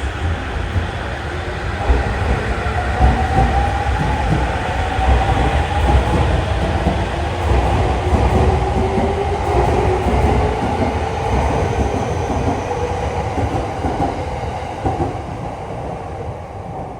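Electric commuter train running on the rails: a loud, steady rumble with a faint whining tone that drifts in pitch, easing off near the end.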